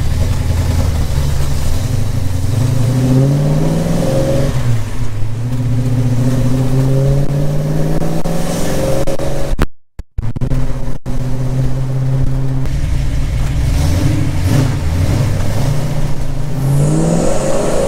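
Pontiac 467 V8 in a 1969 GTO accelerating hard through the gears, heard from inside the cabin: the engine note climbs, drops at each upshift and climbs again, several times over. It pulls without hesitation with the electric fuel pump switched off. The sound cuts out briefly about ten seconds in.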